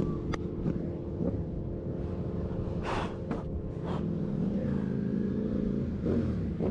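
A vehicle engine running with a steady rumble, with a few short sharp cracks over it.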